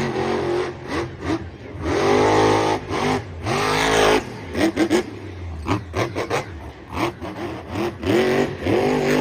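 Car engine revving sounds in a string of short runs, each rising and falling in pitch.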